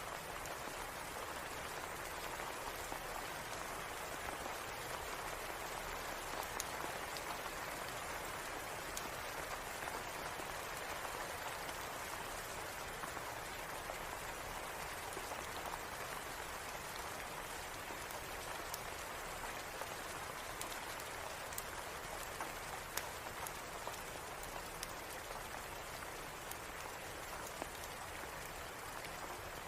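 Steady rain falling in an even hiss, with scattered faint sharp ticks.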